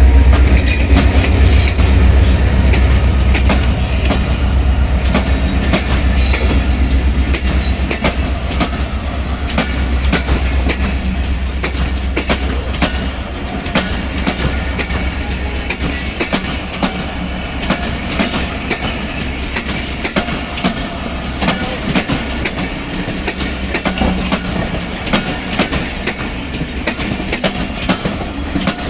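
A train passing close by: a heavy low rumble at the start that fades over the first several seconds, then a long steady clickety-clack of railway wagon wheels over the rail joints.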